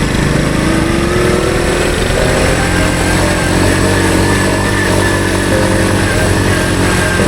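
Honda CT110 postie bike's small single-cylinder four-stroke engine running under way, its note rising over the first couple of seconds and then holding steady.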